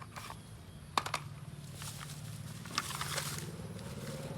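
Grass rustling in short bursts, with two sharp clicks about a second in, over a steady low hum.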